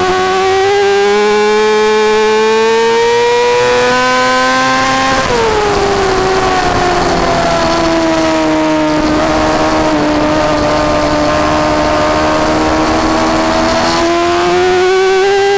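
Yamaha R6 600 cc inline-four sport bike engine heard onboard at racing speed: its pitch climbs for about five seconds, falls away over about a second, holds nearly steady through a long lean, then climbs again near the end.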